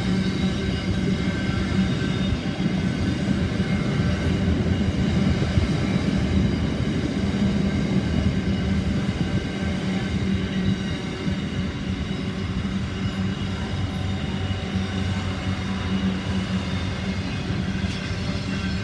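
Freight train's diesel locomotives running with a steady, even engine drone over a continuous rail rumble.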